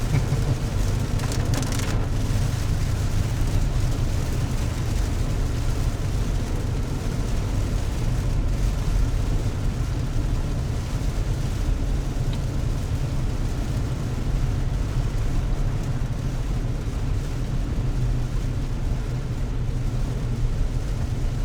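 Steady low rumble of a car's engine and tyres heard from inside the cabin while driving, with rain falling on the car.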